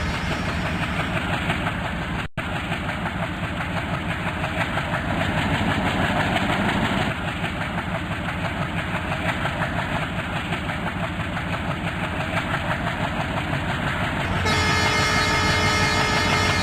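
A passenger train running past, its wheels clattering steadily over the rail joints under the drone of a diesel locomotive. About two seconds in the sound drops out for an instant, and near the end it changes abruptly to a steadier hum.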